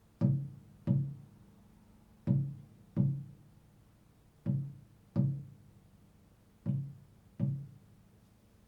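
Slow improvised music: a single low, plucked-sounding note played in pairs, four pairs about two seconds apart, each note dying away quickly.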